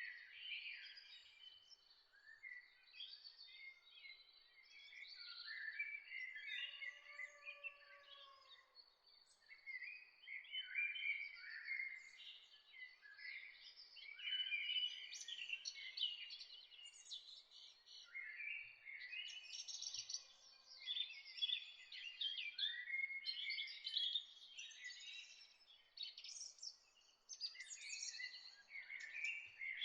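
Several birds chirping and singing at once, a dense chorus of short chirps and trills over a faint background hiss, with one lower whistled call about seven seconds in.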